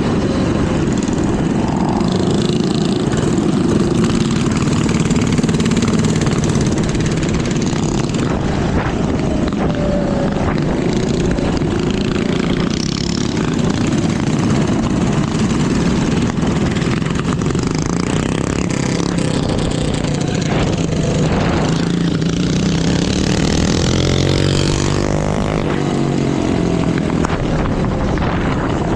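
Minibike engines running under way, their pitch rising and falling with the throttle.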